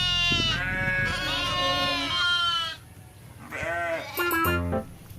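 Goats bleating: a long wavering bleat overlapped by a second goat's, then a shorter bleat about three and a half seconds in.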